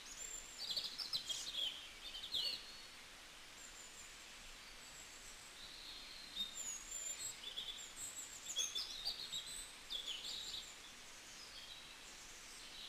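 Birds chirping in several short bursts of high twittering calls over a faint steady hiss.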